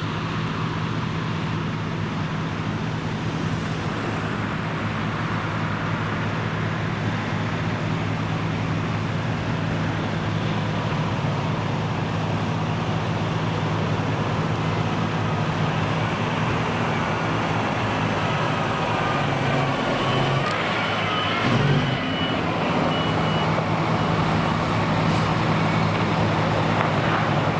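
Steady motor-vehicle noise with a constant low hum, and a few brief wavering higher tones about twenty seconds in.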